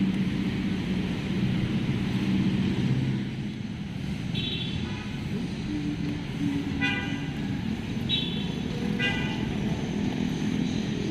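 Road traffic with vehicle engines running. Four short horn toots sound from about four seconds in.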